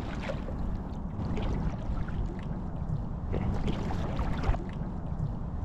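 Water sloshing and lapping around a person wading, with a few small splashes along the way.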